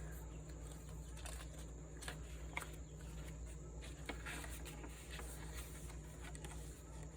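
Faint, scattered rustles and soft clicks of paper and card being handled as journal pages are turned, over a steady low hum.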